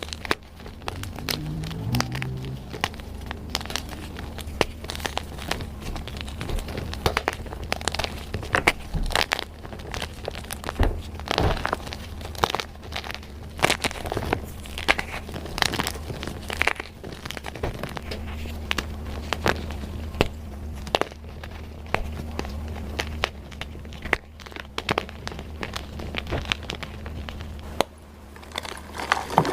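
Blocks of dyed gym chalk being crushed and crumbled, a dense, irregular run of crunches and crackles over a low steady hum.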